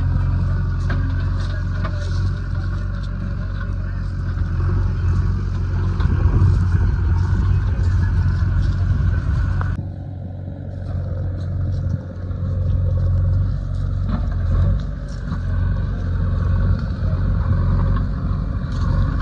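Diesel engine of a JCB 3DX backhoe loader running in a steady low drone while the machine works, with occasional light clanks. The sound changes abruptly about ten seconds in.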